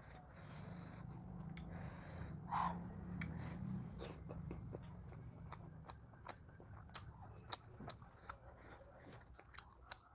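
Close-up chewing while eating, with many small sharp mouth clicks scattered irregularly through it.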